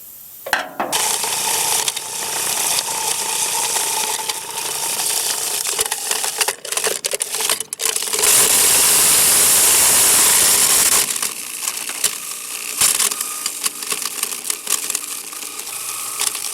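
A 3/4 hp InSinkErator garbage disposal running and grinding something hard, with a rattling, clattering racket over the motor's hum. It starts about half a second in and is loudest in the middle.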